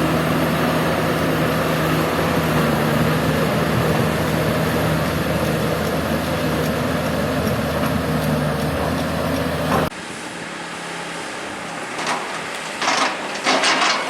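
Excavator's diesel engine running steadily and loudly for about ten seconds, then cutting off abruptly to a quieter engine background with a few short hissing bursts near the end.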